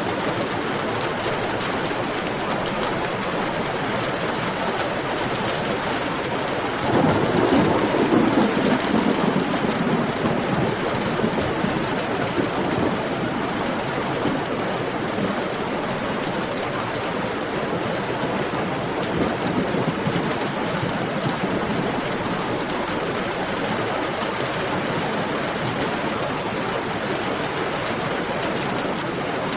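Heavy rain falling steadily. About seven seconds in, a roll of thunder swells up and fades over several seconds.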